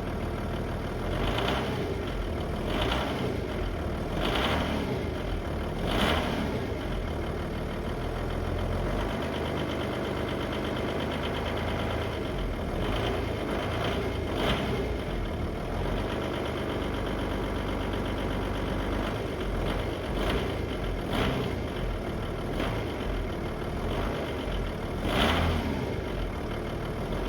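Audi A6 C5 2.5 V6 TDI (AKN) diesel engine running with a knock. Sharp knocks come about every second and a half at first, then at irregular gaps.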